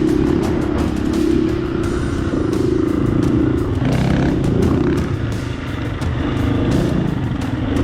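Dirt bike engine running steadily under way, with a continual patter of short clicks and clatter over the engine note.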